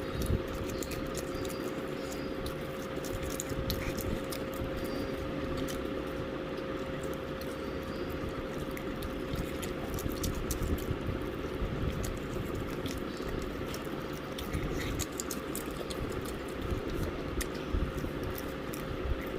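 Person chewing KFC fried chicken, with many small wet clicks and smacks of the mouth, over a steady electrical hum.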